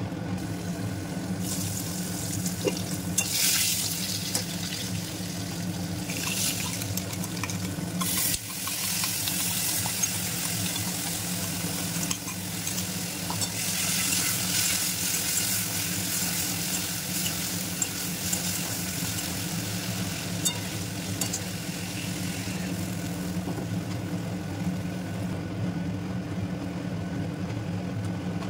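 Oil sizzling in a kadai as potato wedges fry and a paste is stirred in with a metal spatula, with occasional scrapes and clicks. The hiss surges several times, longest in the middle, over a steady low hum.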